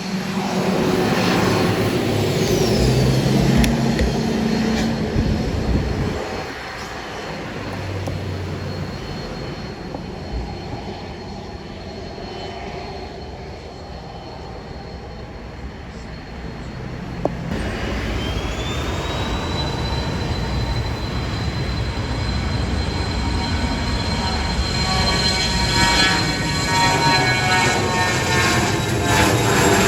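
Jet airliner engines. A rumble fades after about six seconds, then a little past halfway a whine rises and holds at a high steady pitch while the engine noise builds toward the end.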